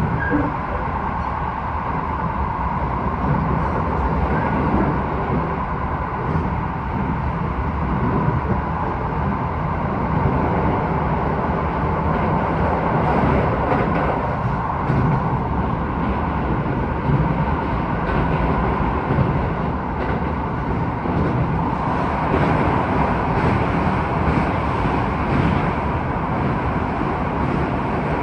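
Keisei 3000 series electric train running at speed, heard from inside a car: a steady rumble of wheels on rails with a constant tone above it.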